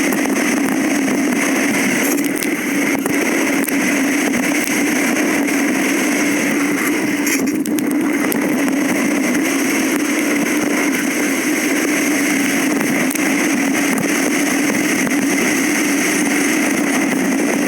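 Motorcycle engine running at a steady speed while riding, a constant even drone with no change in pitch.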